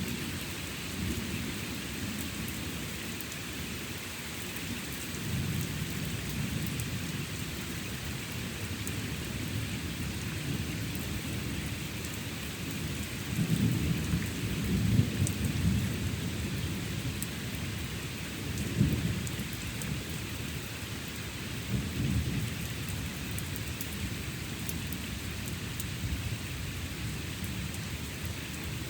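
Steady rain falling, with rolls of thunder rumbling low, loudest about halfway through and again with shorter swells a few seconds later.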